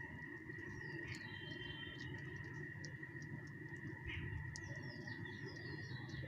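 Small wild birds chirping in short, scattered calls with quick falling notes, over a continuous steady high-pitched hum and a low background rumble.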